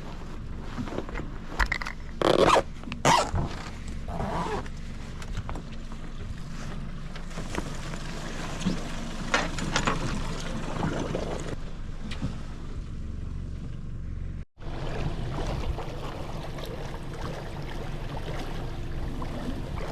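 A boat's motor running steadily, with wind on the microphone. Several short scraping rasps come about two, three and four and a half seconds in, and the sound cuts out for an instant near the middle.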